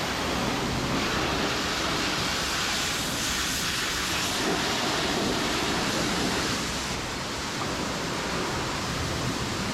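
High-pressure car-wash wand spraying water onto a truck's engine bay: a steady hiss of water spray that goes on without a break.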